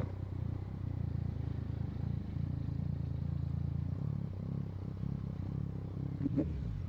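Yamaha MT-09 motorcycle's three-cylinder engine running steadily with a low, even drone.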